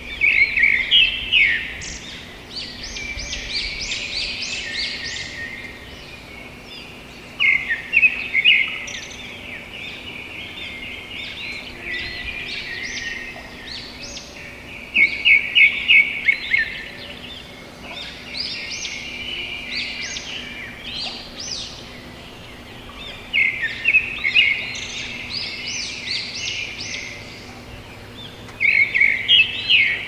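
A songbird singing the same kind of phrase again and again, about every seven seconds: each phrase opens with a loud run of quick, high notes and trails into several seconds of softer twittering.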